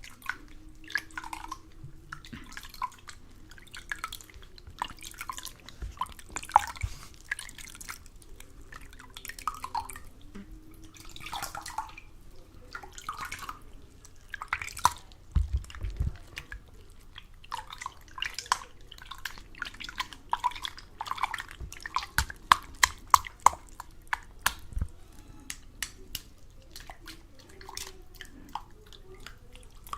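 Close-miked ASMR water sounds: irregular drips, wet clicks and small splashes. They come more thickly in the second half.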